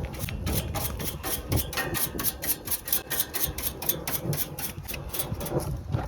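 Rapid, even scrubbing or rubbing strokes, about seven a second.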